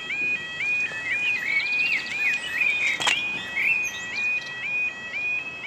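Level crossing audible warning alarm, the electronic 'yodel', sounding as the barriers lower for an approaching train: a warbling tone that glides up and repeats about twice a second, then cuts off at the end. A small bird chirps over it partway through, and there is one sharp click in the middle.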